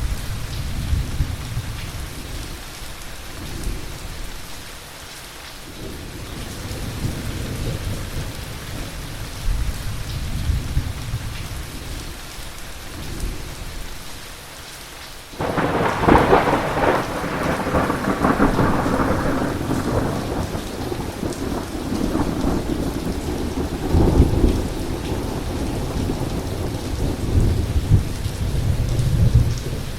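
Heavy thunderstorm: steady rain with low rolling thunder. About halfway through, a loud thunderclap breaks in suddenly and rolls on for several seconds, followed by another rumble a few seconds later.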